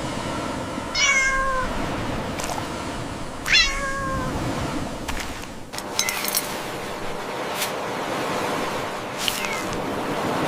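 A cat meowing twice, two short calls about two and a half seconds apart, over a steady background hiss, with a few short clicks later on.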